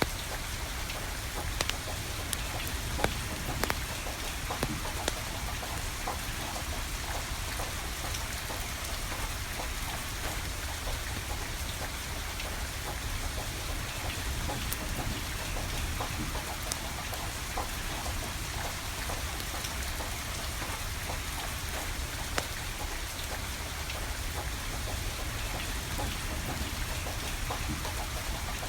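Steady rain falling, with the sharp pops and crackles of burning firewood scattered through it; a few louder pops come in the first few seconds.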